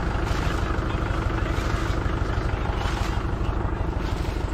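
Tractor engine running steadily with an even, fast low beat.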